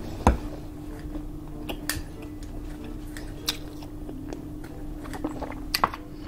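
Close-up eating of air-fried grilled pork belly: irregular wet chewing and biting clicks, the loudest a bite about a third of a second in. A faint steady hum sits underneath.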